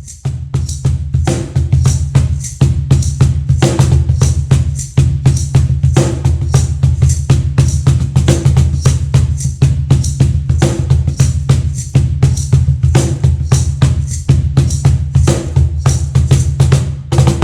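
Meinl cajon played by hand in a steady, fast groove of sharp slap strokes mixed with deeper bass strokes, over a continuous low rumble.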